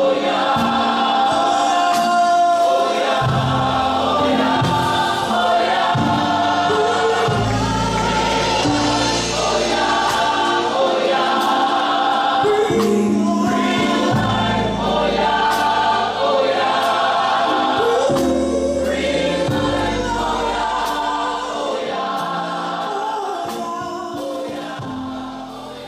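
A choir singing a gospel-style praise song over music, fading out over the last few seconds.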